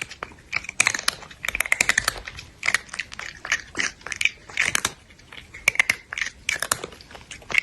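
Crunchy chewing and biting: irregular clusters of sharp crunches, several a second, with short pauses between bites.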